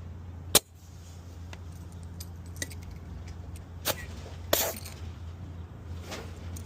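Metal clicks and clinks from a truck tire inflator hose's chuck and fittings being handled at the tire valve: one loud sharp click about half a second in, lighter clicks after it, and a short burst of air hiss a little past the middle, over a steady low hum.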